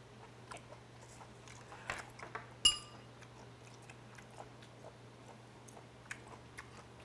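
A person chewing food with small mouth noises and light clicks of utensils. About two and a half seconds in comes one sharp, ringing clink of metal utensils against the dishes. A steady low hum runs underneath.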